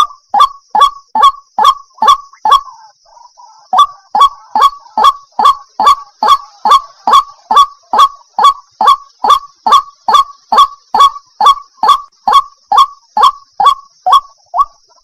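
Waterhen calling: a long, monotonous series of short honking notes, each dropping in pitch, about three a second, with a short pause a few seconds in.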